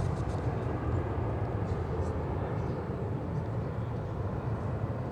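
Steady low outdoor rumble with no clear pitch, with a few faint ticks over it.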